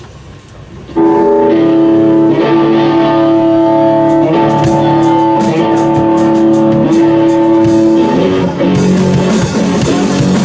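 Rock band music coming in abruptly about a second in: electric guitars ringing out held chords over drums, loud.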